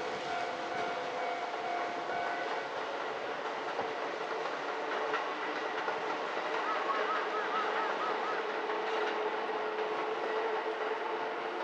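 Kintetsu electric train running at the station, with wheels on the rails and several steady tones over the rolling noise; one tone drops out a couple of seconds in.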